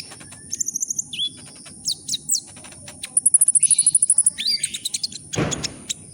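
Sunbird ('kolibri ninja') singing: quick, very high-pitched chirps and sweeps, with a rapid trill of even notes about three seconds in, over a steady high-pitched tone. A short noisy rustle or thump comes near the end.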